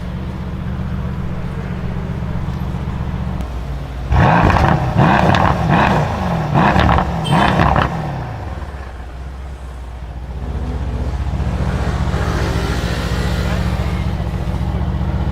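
Mercedes car with a loud exhaust idling with a deep rumble, then revved in a quick series of sharp blips for about four seconds. After that it settles back to idle.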